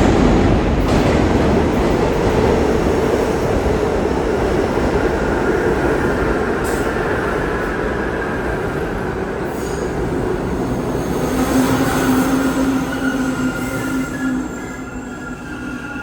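R62A subway train running on the track, a loud rumble with wheels squealing in high tones in the second half. The noise eases down and drops off sharply about 14 seconds in.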